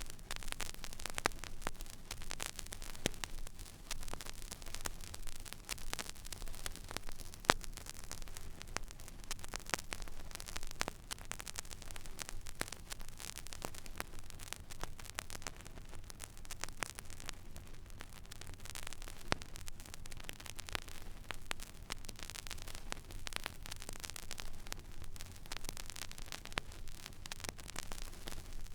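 Stylus riding an empty vinyl record groove: steady surface hiss and low hum with frequent irregular crackles and pops, one sharper pop about seven and a half seconds in.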